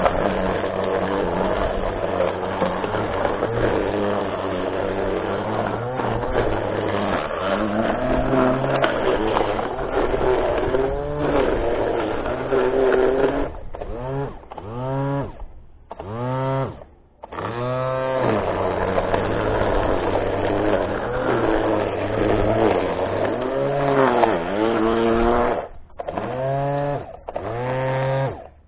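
Small gasoline engine of lawn equipment running steadily. From about halfway through it is revved and let off again and again, its pitch swooping down and back up each time, with brief dips to near silence between.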